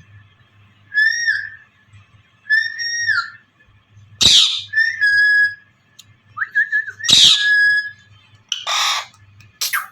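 Pet parrot calling: a string of clear whistled notes, some gliding up at the start and dropping at the end, broken twice by short, loud, harsh screeches and ending in rougher, noisier calls.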